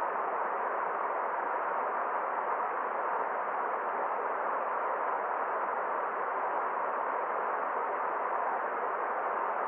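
Forest stream flowing: a steady, even rush of water with no separate splashes or drops standing out.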